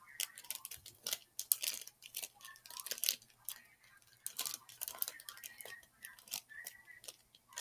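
Slime being mixed and worked by hand: a dense run of irregular, sticky clicks and crackles.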